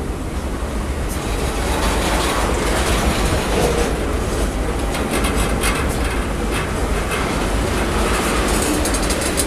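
Freight train of tank cars rolling past, steel wheels clacking over the rail joints over a steady rumble.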